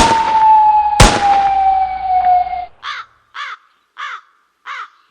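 Dubplate sound effects: a steady high tone, slowly falling in pitch, is hit by two loud bangs about a second apart and cuts off suddenly a little under three seconds in. Then a crow caws over and over, about one caw every 0.6 seconds.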